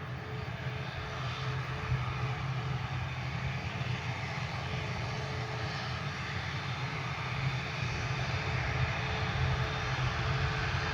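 Aircraft engines running steadily, a rushing noise with a constant hum that grows slowly louder as the aircraft draws nearer.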